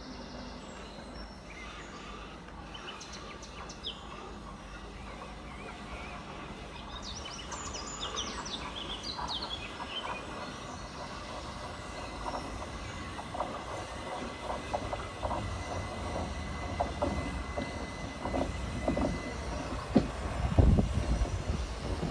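Electric passenger train pulling into the station: its running noise grows slowly louder, with a thin steady whine in the middle and wheels clattering over rail joints more and more often, ending in a few loud knocks near the end.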